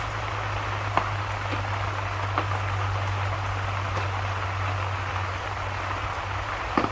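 Steady rain falling, with a low steady hum underneath and a few sharp pops or drips, one about a second in and a couple near the end.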